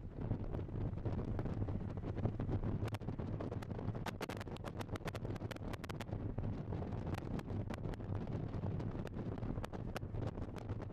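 Wind buffeting the camcorder microphone: a steady low rumble with many scattered sharp crackles.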